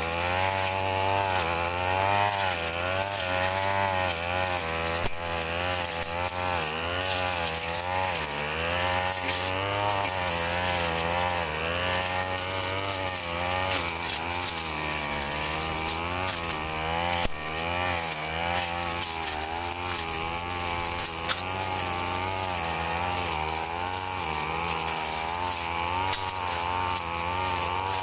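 Brush cutter engine running steadily while cutting grass, its pitch wavering up and down throughout.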